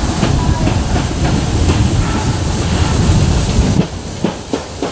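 Narrow-gauge railway coaches rolling past close by: a low rumble with wheels clicking over the rail joints. The rumble drops away suddenly about four seconds in, leaving a few single clicks.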